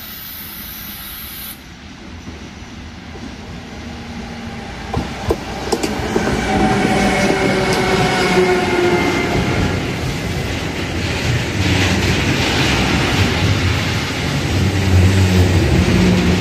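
A train approaching and passing, growing steadily louder. A few sharp clicks of the wheels over rail joints come about five seconds in, then a loud, steady rumble.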